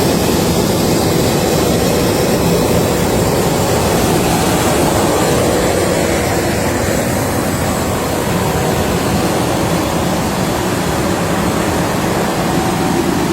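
Self-propelled Hoover Maxi vacuum harvester running, its 65 hp Kubota engine and suction fan making a loud, steady rushing noise with a faint hum.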